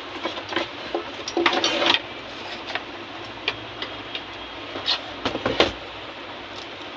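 Hand work on harmonium keys: irregular scraping strokes and sharp clicks over a steady hiss, with one longer rasping stroke about one and a half seconds in and a quick run of clicks near the end.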